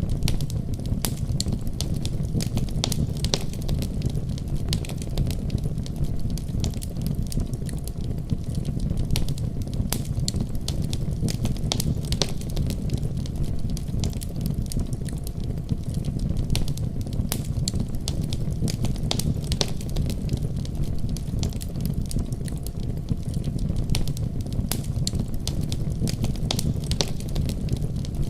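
Fireplace fire crackling, with frequent irregular sharp pops over a steady low rumble of flames.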